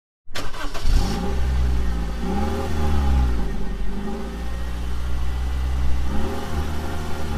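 Car engine sound effect: an engine running with a strong low drone, revving up and back down a couple of times, starting and cutting off abruptly.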